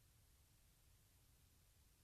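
Near silence: a faint, steady hiss with a low rumble underneath, like room tone or recording noise.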